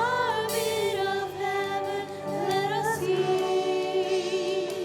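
Worship music: voices singing long, held notes with vibrato over steady accompaniment.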